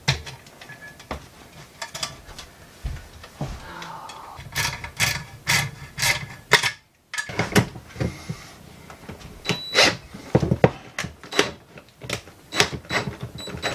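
Irregular clicks, knocks and scraping of hand tools and parts being handled and fitted, with a brief drop-out to silence about halfway through.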